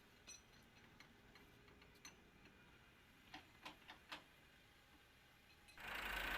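A few light clicks in near silence, then a tractor engine starts running abruptly near the end and runs on steadily.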